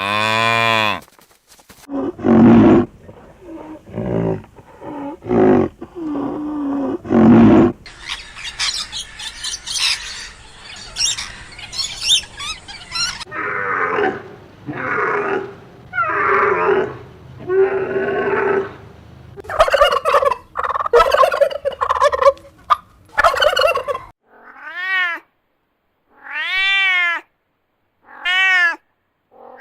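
A run of different animal calls, one after another: repeated roars from a big cat such as a lion or tiger in the first part, then other calls, and near the end four short calls that rise and fall in pitch.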